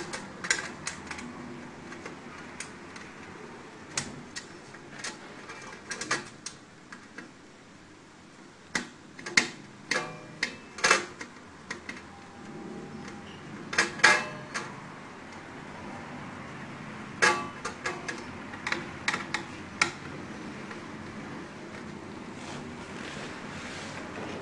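Irregular clicks, taps and knocks of hard parts and tools being handled during a circuit-board repair, scattered singly and in quick clusters, densest in the middle.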